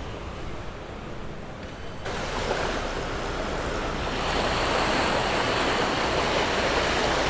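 Sea surf washing on a shore: a steady hiss of waves with some wind on the microphone. It jumps louder suddenly about two seconds in.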